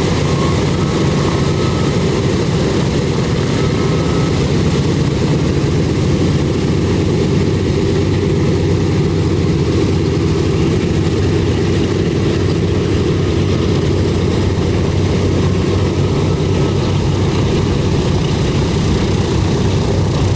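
Boeing B-17's Wright R-1820 Cyclone nine-cylinder radial engines running steadily with propellers turning.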